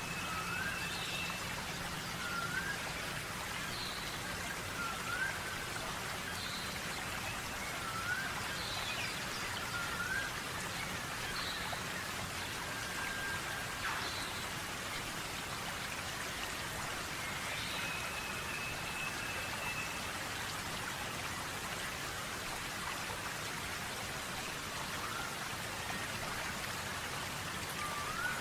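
Birds calling over a steady hiss. A short rising chirp repeats every second or two through the first half, and two longer level whistles come, one at the start and one a little past halfway.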